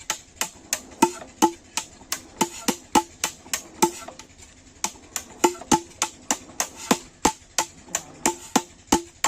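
Repeated sharp knocks, about three a second and slightly uneven, each with a short ringing tone.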